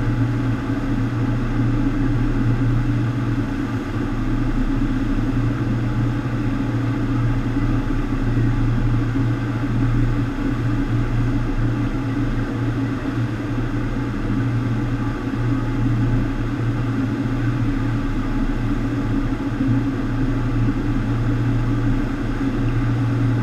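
FlowRider sheet-wave machine running: a steady, unchanging rush of water over a low, even hum.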